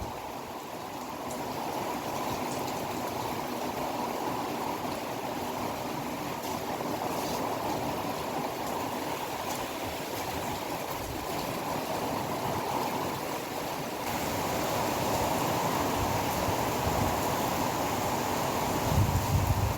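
Steady rushing noise of strong typhoon wind, with a low buffet of wind on the microphone near the end.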